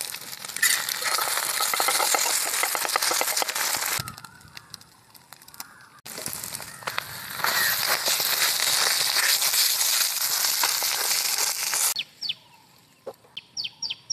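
Eggs and then an egg-topped flatbread frying in hot oil in an iron wok: a loud, dense crackling sizzle that drops away for a couple of seconds about four seconds in, then returns and stops near the end. After it, a bird gives a quick run of short chirps.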